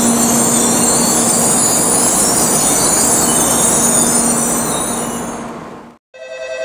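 Shinkansen train running past on the station track, a steady loud rush with a high squeal from the wheels, fading about five seconds in. The sound cuts out just before the end and a ringing chime tone begins.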